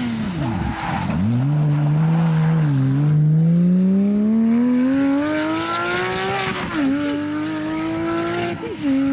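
Porsche rally car engine under hard acceleration. The engine lifts off briefly at the start, then its pitch rises steadily for several seconds with a short dip near three seconds. It drops again about seven seconds in and then runs steadily.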